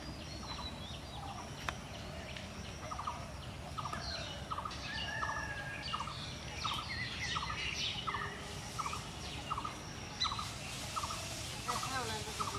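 Birds calling: one short call repeated in a steady rhythm about twice a second, with higher chirps of smaller birds over it.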